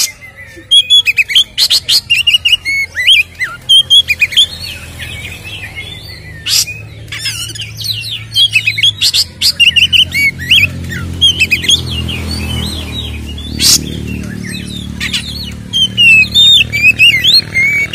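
Oriental magpie-robin (kacer) singing a loud, fast, varied song of whistled and chattering notes, broken by sharp clicks. This is the full, aggressive song (ngeplong, fighting mode) that keepers play to provoke other magpie-robins.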